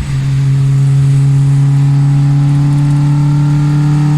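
Rebuilt Toyota 4A-GE four-cylinder engine of a 1988 Corolla running under way. It makes a steady drone that climbs slowly in pitch as the car gathers speed, after a brief dip right at the start.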